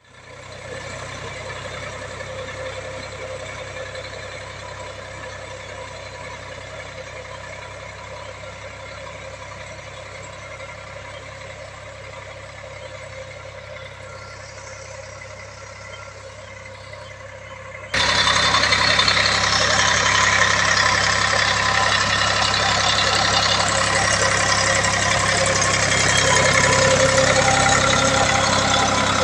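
HMT 3522 tractor's diesel engine running steadily while working a rotavator. The sound turns suddenly much louder about two-thirds of the way through.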